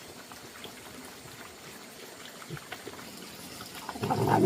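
Water trickling faintly, then a short, louder rush of water about four seconds in.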